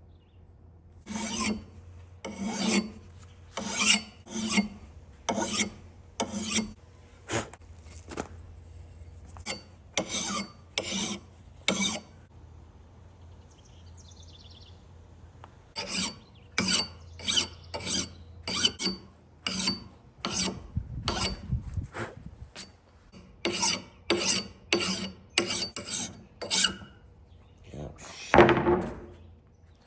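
Hand file stroking across the cutters of a chainsaw chain to sharpen them: two runs of quick, even rasping strokes, about one or two a second, with a pause between them and one louder scrape near the end.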